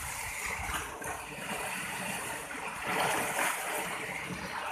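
Water splashing and churning as someone swims, over a steady rush of water, a little louder about three seconds in.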